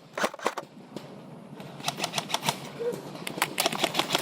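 Airsoft guns firing in a fight: a rapid, irregular run of sharp clicks and snaps. A few come early, and they thicken from about two seconds in.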